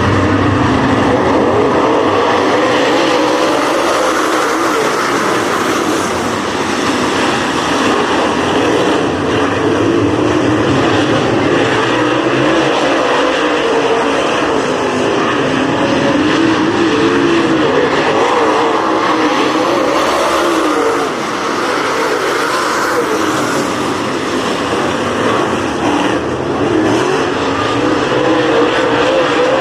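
A field of dirt-track race cars running laps together, the engines' pitch rising and falling as they pass and the note holding loud throughout.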